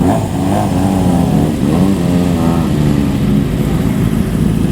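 Motorcycle engine running loud through its exhaust, the revs rising and falling.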